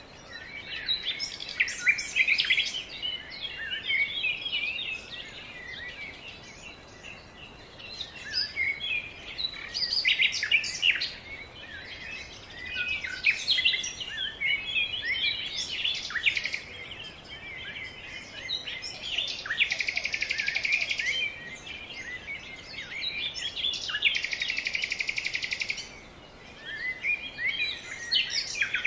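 Birds chirping and calling, many short quick notes one after another. Two rapid trills of about two seconds each come in the second half.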